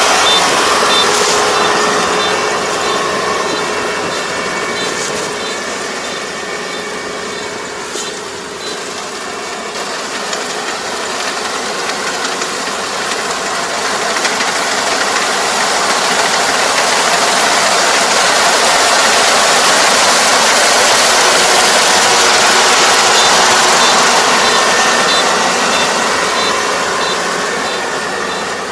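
Kubota ER470 combine harvester running steadily while cutting rice, its engine and threshing machinery a loud continuous din that fades a little and then grows louder again as the machine moves.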